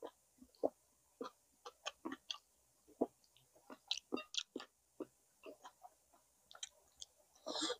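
Close-miked mukbang eating sounds: a person chewing food with irregular wet mouth smacks and clicks, and a short louder noisy mouth sound just before the end.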